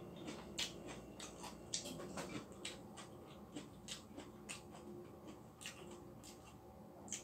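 A person chewing food with open-mouthed smacking: a string of short, sharp wet clicks at about two or three a second.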